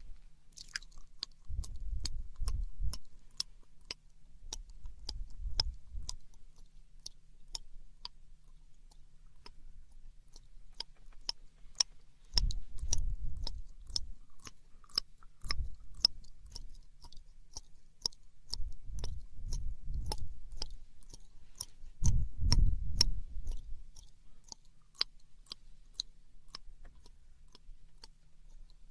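ASMR mouth sounds: a run of wet, sharp mouth clicks and smacks close to the microphone, with five or six soft low rumbling patches about a second long spread through.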